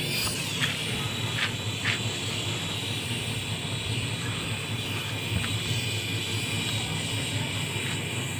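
Radio-controlled helicopter's motor and rotor running steadily: a steady high whine over a low hum, with a few short clicks.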